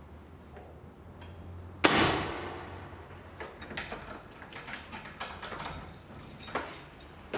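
A single loud bang about two seconds in, ringing away over about a second, followed by scattered lighter clicks and knocks.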